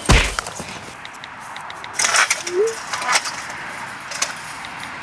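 A loud, sharp impact hit at the start as a flying kick lands, followed by crashing, breaking noises about two seconds in and again about three seconds in.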